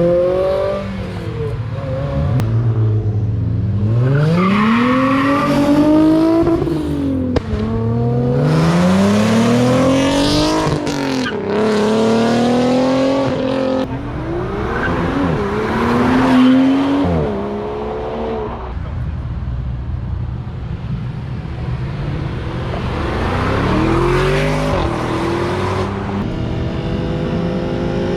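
Several cars accelerating hard one after another, engines climbing in pitch and dropping back at each gear change.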